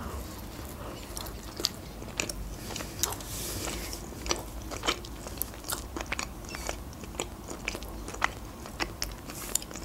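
A person biting into a soft doughnut and chewing it with the mouth closed: a steady run of small, irregular mouth clicks.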